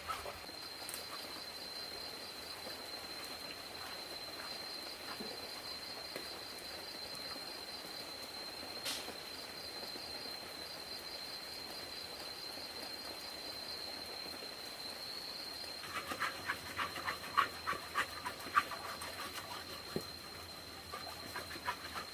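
An insect's steady high-pitched trill, pulsing slightly, against a faint hiss of outdoor noise. In the last few seconds, a quick irregular run of sharp clicks or taps.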